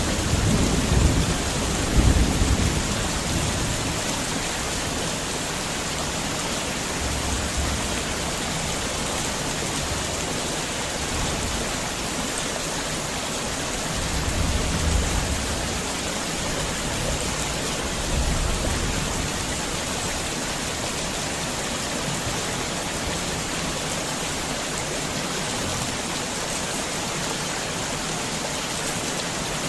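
Heavy rain falling steadily, an even hiss. Low rumbles of thunder come through in the first few seconds and again about halfway through.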